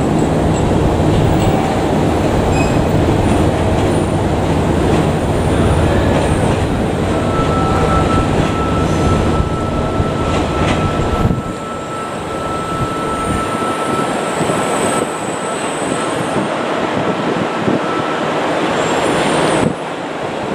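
Kyushu Shinkansen train pulling in to its terminus platform and slowing, with a steady high whine from about a third of the way in until near the end. A heavy rumble of wind on the microphone runs underneath and falls away about halfway through.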